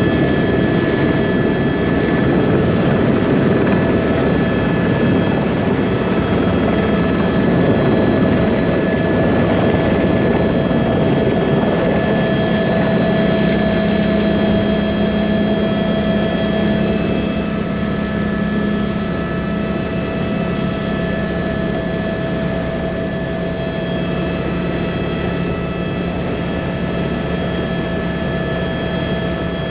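Helicopter turbine engine and rotor running steadily, a constant whine of several high tones over a rushing noise, with a lower drone joining about halfway through as the overall level eases slightly.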